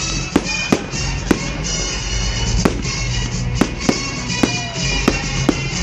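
Fireworks going off: about nine sharp bangs and cracks at irregular intervals, over music with long held notes.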